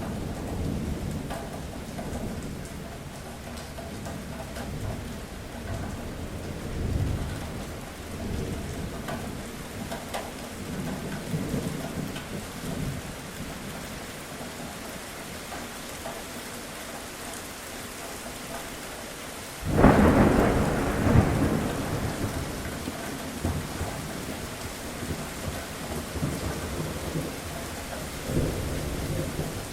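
Thunderstorm: steady rain with low rolling thunder. About two-thirds of the way through, a sudden loud thunderclap cracks and then rumbles away over a few seconds, and a smaller rumble follows near the end.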